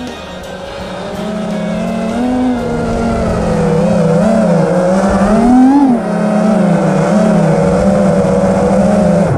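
Brushless motors and propellers of a 5-inch FPV racing quadcopter whining, the pitch wavering up and down with throttle and peaking about six seconds in, then cutting off suddenly at the end.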